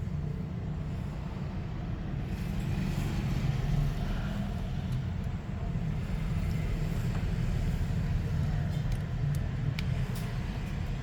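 Steady low background rumble, with a few faint clicks in the second half.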